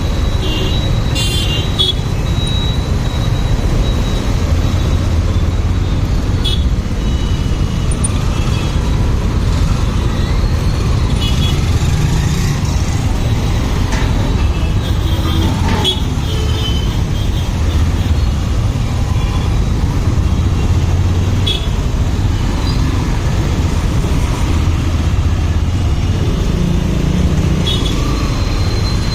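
Motorcycle ride in traffic: steady wind rumble and engine noise on the rider's microphone, with short horn toots from traffic at several points.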